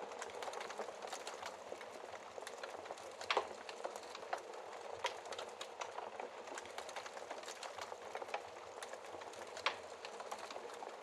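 Wood fire crackling in a fireplace: a steady hiss of flames with frequent sharp pops, the loudest about three seconds in and another near the end.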